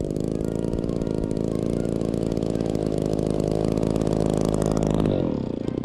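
RC Spitfire model's engine running steadily at high revs, its pitch dropping about five seconds in as the throttle comes back or the plane passes.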